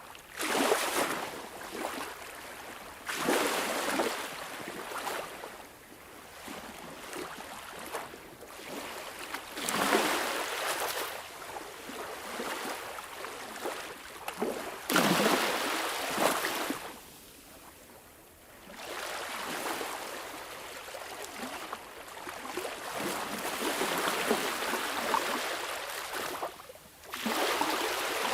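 Sea waves washing onto a shore: a steady hiss of surf that swells into a louder rush every few seconds, at uneven intervals, and fades back.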